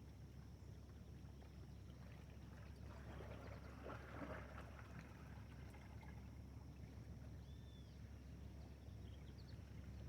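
Faint water sounds, with a short patch of soft splashing about halfway through, over a steady low hum and a thin steady high whine.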